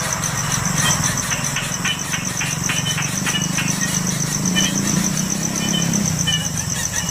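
Steady, rapidly pulsing high-pitched insect chirring, with short high chirps scattered through it and a low hum beneath.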